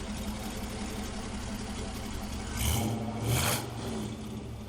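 Chevrolet muscle car engine idling with a lumpy, uneven beat, then revved twice in quick succession a little past halfway.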